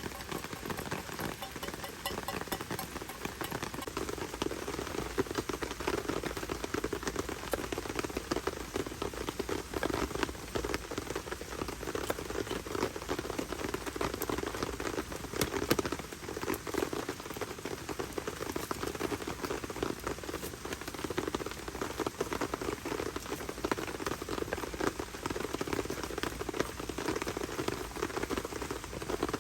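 Heavy rain falling steadily on a tent shelter, a dense patter of countless drops hitting the fabric.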